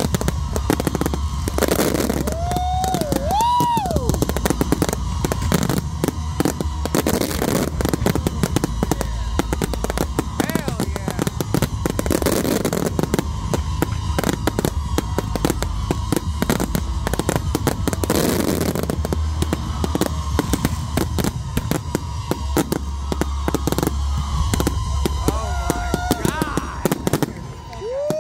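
Aerial fireworks going off in a dense, continuous barrage of rapid bangs and crackling, with a few brief rising-and-falling tones near the start and near the end.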